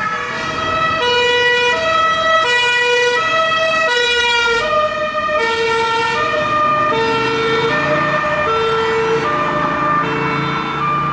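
Two-tone police siren of an unmarked car, switching between a high and a low note about every two-thirds of a second, with a second siren overlapping it out of step. Road and engine noise sit underneath.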